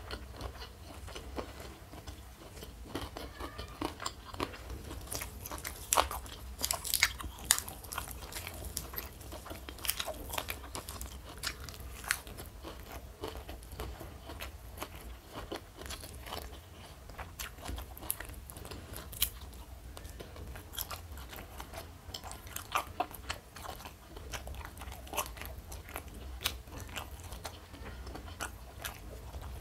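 Close-miked eating: a person biting and chewing crunchy food, with many irregular crisp crunches.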